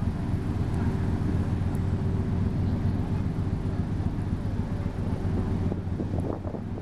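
Steady low drone of a ro-ro ferry's engines, with a constant hum and wind noise on the microphone.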